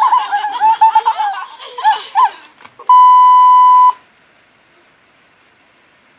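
A very high-pitched voice for about two and a half seconds, then a steady electronic beep of about a second that cuts off sharply, leaving faint hiss.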